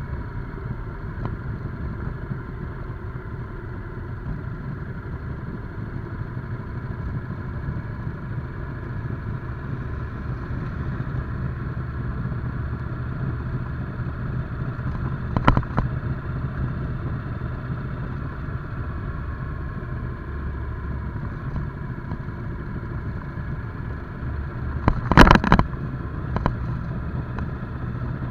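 Motorcycle engine running steadily while riding at low, even speed. A sharp knock sounds about halfway through, and a short burst of louder clatter comes near the end.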